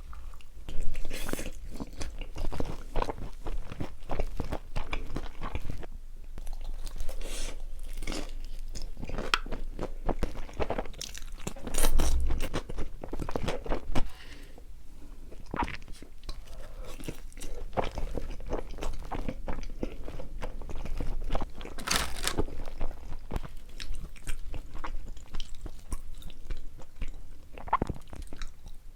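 Close-miked chewing and crunching of food, with irregular crisp crunches and a few louder bites.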